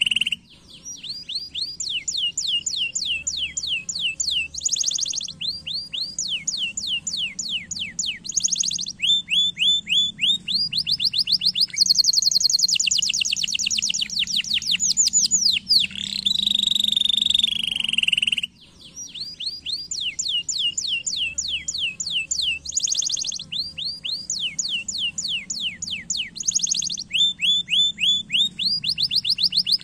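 Domestic canary singing a long song built of tours: runs of rapid, repeated descending whistled notes that switch every second or two into dense rolling trills. After a brief break about two-thirds of the way through, the same song sequence starts over.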